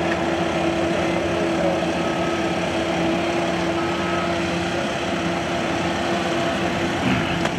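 Vehicle engine idling steadily with a constant hum and no change in speed.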